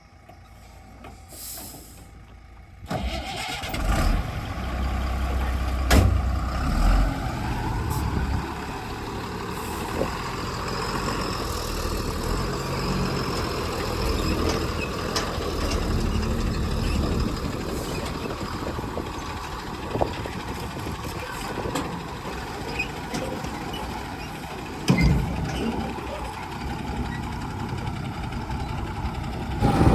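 Heavy diesel vehicle engine running, coming in suddenly about three seconds in after a quiet start, with a few loud knocks along the way.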